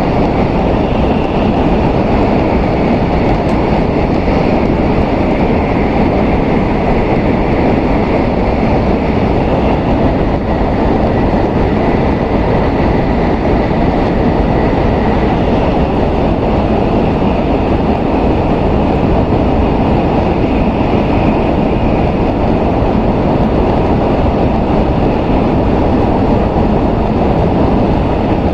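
Running noise of an N700S Shinkansen heard inside the passenger cabin: a steady, dense rumble of wheels and track, with a faint high whine partway through.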